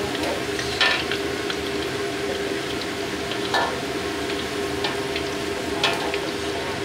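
Potato and carrot pieces frying in hot oil in a wok, a steady sizzle over a steady hum. Three sharp clinks of a utensil against the wok or bowl as the browned pieces are lifted out.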